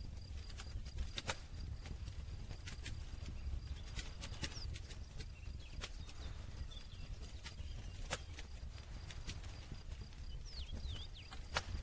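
Campfire crackling: wood burning with irregular sharp pops and snaps over a low steady rumble of the flames.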